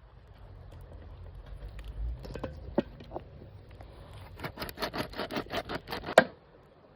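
Scrapes and scattered knocks of hands-on cooking work, then a quick run of about a dozen even taps, about seven a second, ending in one sharper, louder knock.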